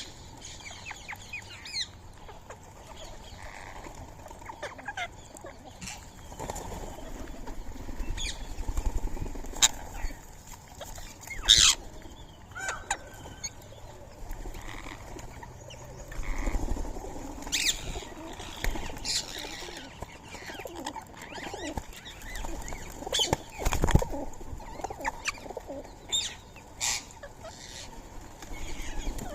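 Rose-ringed parakeets at a feeding spot: scattered short, sharp squawks and wing flaps over a low background, with a few soft thumps. The strongest calls come about a third of the way in and again near the end.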